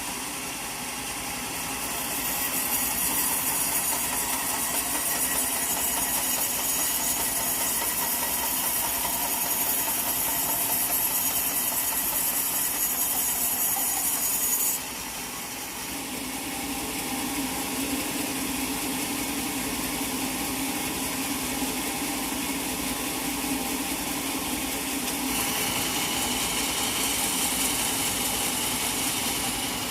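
Sawmill saw cutting a teak log, a steady loud machine noise with a bright hiss that drops off abruptly about halfway, after which the machinery keeps running with a lower, steadier sound.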